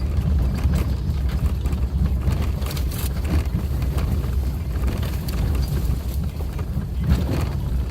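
Suzuki Jimny driving on a rough forest road: steady low engine and road rumble, with a couple of short knocks from the rough surface.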